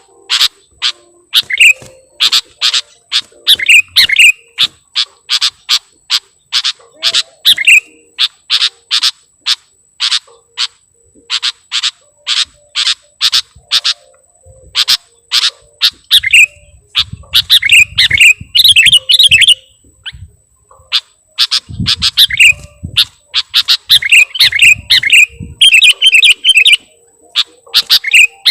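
Sooty-headed bulbul (kutilang) calling: a fast run of short, sharp chirps, about two to three a second, broken by bursts of bubbly, warbled phrases. This is a loud lure call used to draw the birds in.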